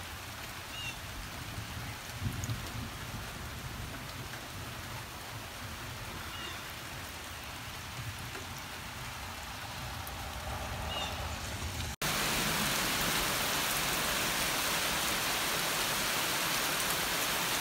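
Rain falling steadily as an even hiss. About twelve seconds in it switches abruptly to a louder, heavier downpour.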